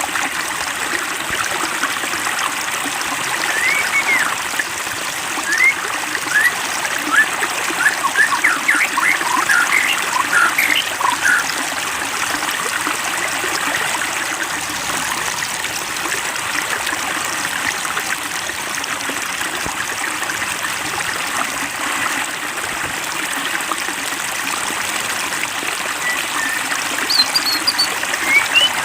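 Water trickling and babbling steadily, with clusters of short, high plinks or chirps about four to eleven seconds in and again near the end.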